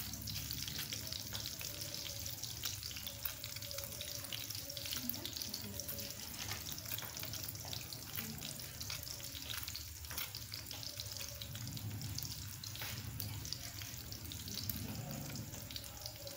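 Egg-coated potato-and-chicken cutlets shallow-frying in hot oil in an aluminium karahi, browning on their first side: a steady sizzle with dense, fine crackling.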